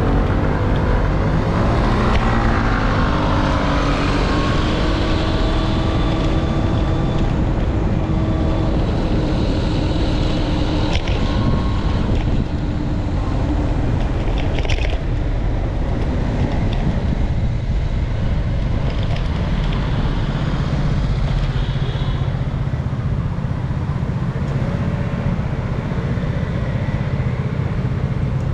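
Road traffic heard while riding, with a strong low rumble of wind on the microphone. Engines of nearby vehicles rise and fall in pitch, most clearly a couple of seconds in.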